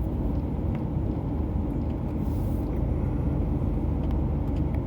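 Lorry engine and road rumble heard from inside the cab while driving, steady and low, with a brief hiss about halfway through.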